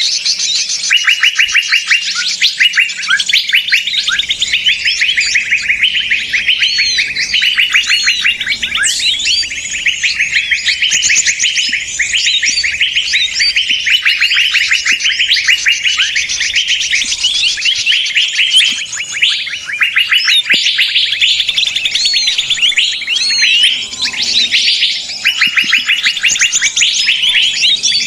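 Dense chorus of many small songbirds chirping and trilling rapidly over one another without a break: a noisy-flock bird-lure call (suara pikat burung ribut) used to draw small birds in for trapping.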